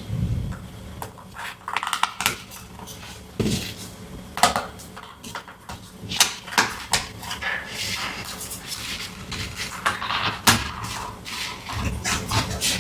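Small hard plastic toy pieces and packaging being handled, with irregular clicks, taps and light knocks as the parts touch each other and a surface, and soft rustling between them.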